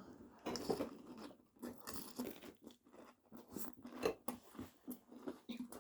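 A mouth chewing breaded chicken: soft, irregular crunching and smacking, several small crunches a second.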